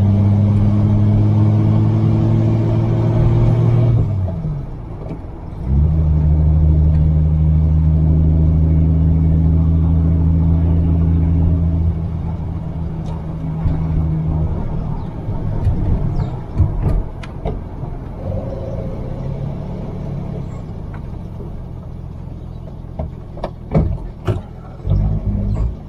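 1949 Rover P3 engine pulling the car along, with a steady note. About four seconds in there is a short dip, and the note comes back lower in pitch. From about twelve seconds in it runs softer and less steady as the car eases off, with a few light clicks, and it picks up again just before the end.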